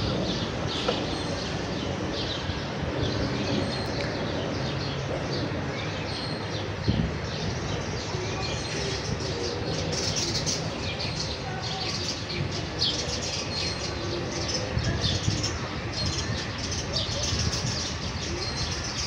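House sparrows chirping, many short chirps overlapping without a break, over a steady low background noise.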